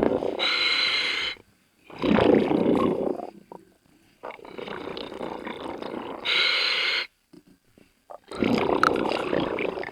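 Scuba diver breathing through a regulator underwater: short hissing inhales alternate with longer bubbly exhales, in a slow repeating cycle of breaths with brief pauses between them.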